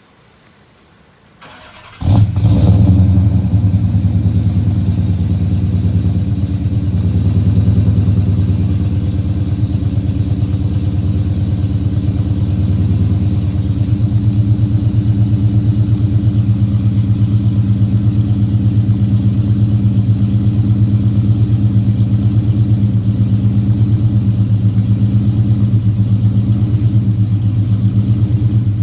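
2011 Dodge Charger R/T's 5.7-litre Hemi V8, fitted with a 270 cam, ported heads, long-tube headers and 2.5-inch Magnaflow mufflers, starting up about two seconds in with a loud flare. It then settles into a steady idle with an even, pulsing beat.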